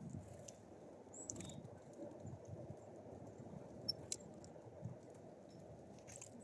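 Small songbirds at a feeder: faint, irregular tapping and shuffling from birds pecking and moving on the feeder, with a few short, very high chirps.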